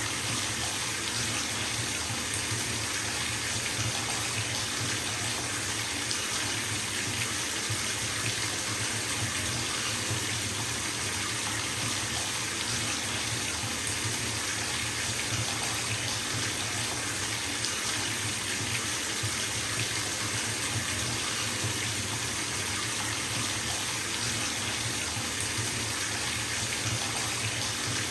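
Bathtub tap running full, water pouring into the filling tub in a steady, even rush.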